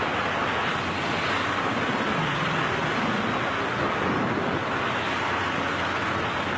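Steady rush of freefall wind over a skydiver's camera microphone, even and unbroken.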